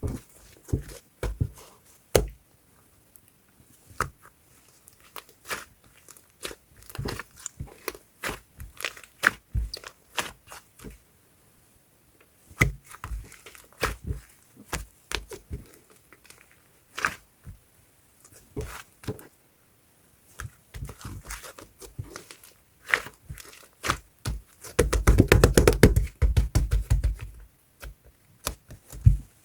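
Fluffy slime being squished, poked and stretched by hand: a steady run of short sticky pops and crackles, with a denser, louder stretch of crackling and thumps about 25 seconds in.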